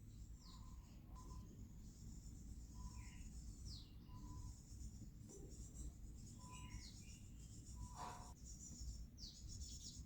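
Faint, scattered bird chirps, short falling sweeps and brief high notes, over a low steady rumble.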